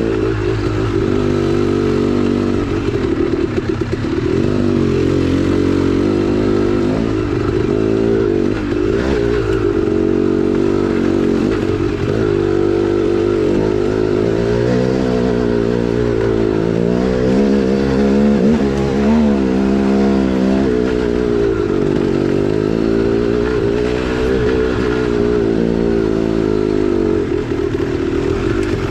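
2010 KTM 300XC-W's two-stroke single-cylinder engine running under load on a dirt trail, its pitch rising and falling as the throttle is opened and closed. About two-thirds of the way through it holds a higher pitch, then climbs further.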